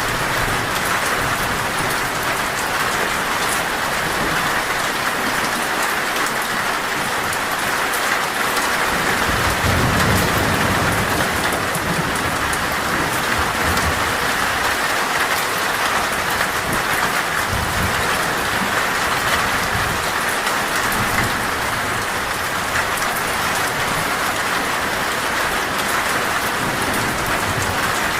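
Heavy rain drumming steadily on a metal roof, with a low rumble of thunder about ten seconds in and a shorter one a little later.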